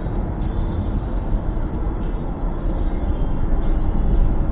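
Steady vehicle noise heard from inside a car: a continuous low rumble of engine and road, with no sudden events.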